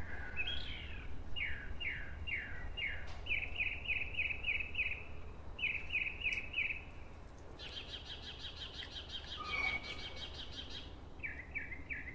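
Birdsong: a songbird repeating phrases of quick, short falling notes, with a higher buzzy trill partway through.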